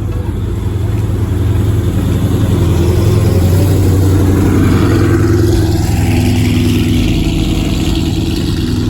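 Loud car engine running with a deep rumble, growing louder toward the middle and easing off slightly near the end.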